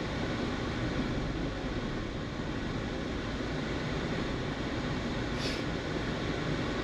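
Steady hum and hiss of a car idling with its ventilation fan running, with one short faint high hiss about five and a half seconds in.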